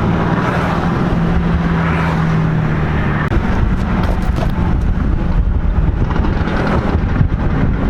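Several cars' engines and exhausts running together while driving in a group, over steady road rumble; one engine holds a steady drone for the first three seconds.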